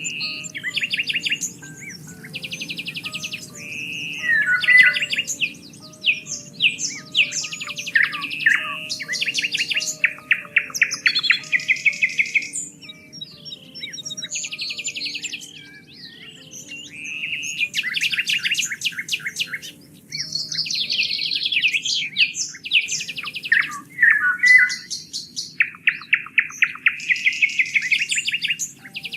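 Several songbirds singing and calling at once, a near-continuous mix of rapid trills and quick chirps, over a soft, steady low background.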